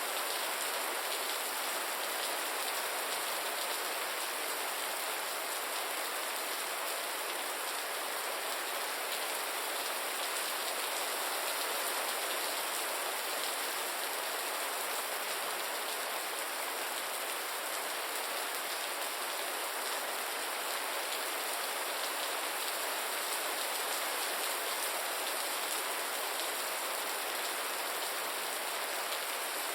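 Gentle rain falling steadily, a dense even patter of drops with no thunder or other events.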